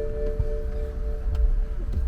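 A steady bell-like ringing tone with two pitches; the higher one stops about halfway through and the lower one near the end. A low rumble runs underneath.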